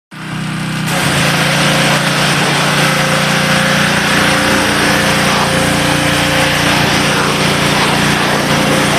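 A small engine running steadily under a loud, even hiss that fills in about a second in.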